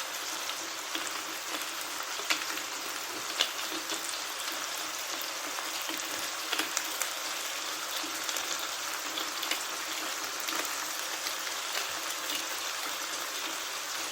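Chicken with onions and garlic sizzling in a frying pan: a steady hiss with scattered crackles and pops.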